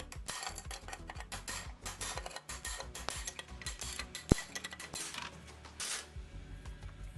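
Metal parts and tools clinking and clattering, with one sharp metallic clank about four seconds in, over background music with a steady low beat.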